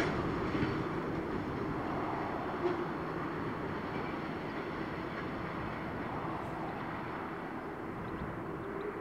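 Container freight train rolling away after passing: a steady rumble of wagon wheels on the rails that slowly fades.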